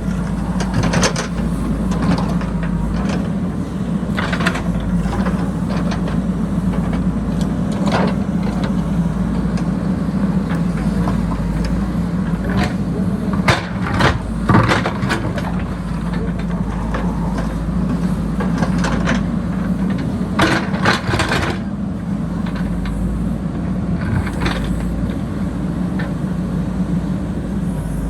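JCB backhoe loader's diesel engine working steadily under load, with scattered sharp knocks and scrapes, clustered about halfway through and again a little later.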